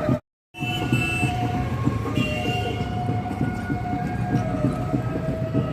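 Steady rumbling noise of a moving train, with a few thin steady tones above it, starting after a brief dropout.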